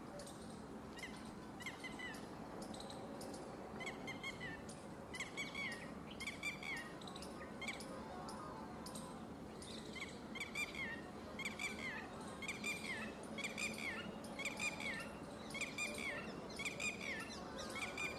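A bird calling over and over in short, downward-slurred chirps, sparse at first and then about one or two a second through the second half, over a steady outdoor background hum.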